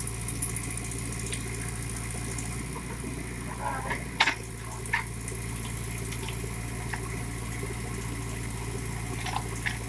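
JCB backhoe loader's diesel engine running steadily, with a few sharp knocks, the clearest about four seconds in.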